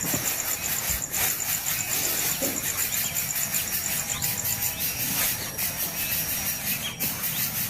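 Nestling birds squealing: high-pitched, rapidly repeated calls, over a steady high buzz.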